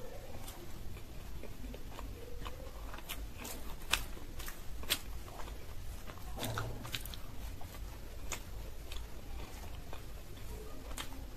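Close-miked chewing of soft fried green-pea kochuri, with sharp, wet mouth clicks scattered throughout. The loudest clicks come about four and five seconds in, and there is a cluster of them around six to seven seconds.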